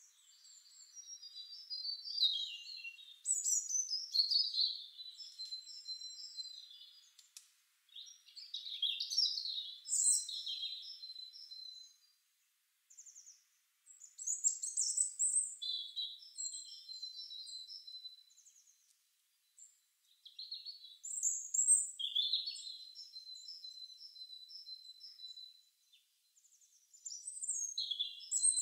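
Songbird singing: high chirping, trilling song phrases a few seconds long, repeated about every six seconds with short pauses between.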